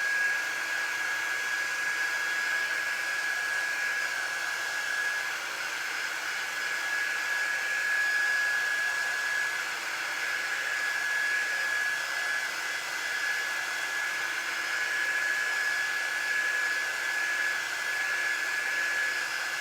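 A handheld electric hot-air dryer blowing steadily, with an even high whine over the rush of air, drying freshly stencilled chalk paste.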